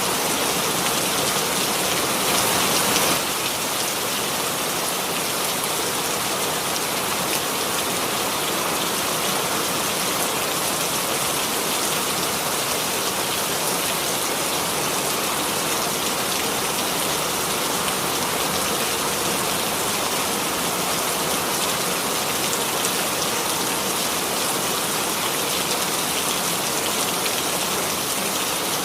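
Steady rainfall, a dense even hiss of many drops with no thunder, a little louder for the first three seconds before settling at a constant level.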